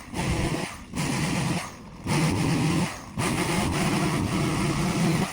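Chainsaw running at high throttle while cutting a felled pine trunk into logs. It drops off briefly several times between cuts and stops abruptly near the end.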